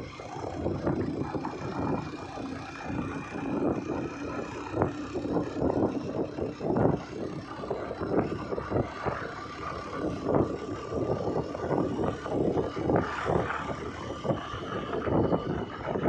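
A moving vehicle: steady engine and road rumble with frequent short knocks and rattles.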